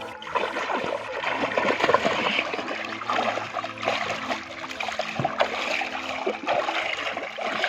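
Water splashing and sloshing, a busy, irregular churning with many small splashes.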